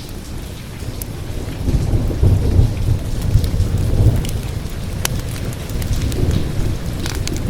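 Thunder rumbling low, swelling about a second and a half in and rolling on, over steady rain. Sharp crackles and pops from a wood fire are scattered throughout.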